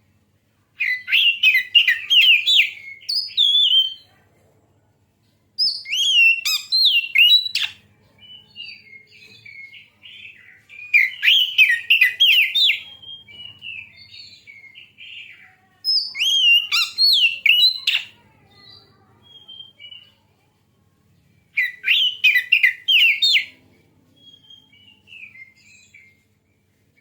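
Oriental magpie-robin (kacer) singing: about five loud bursts of rapid whistled and chattering notes, several seconds apart, with softer twittering between them.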